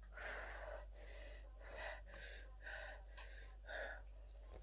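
A woman panting hard through her mouth, about seven quick breathy gasps in a row, from a mouth burning with hot chilli-wing sauce.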